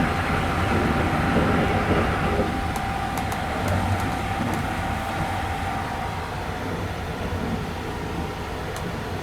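285-series Sunrise Izumo sleeper train running: a steady rumble of wheels on rail with a thin steady whine, easing slightly in loudness, with a few faint clicks about three to four seconds in.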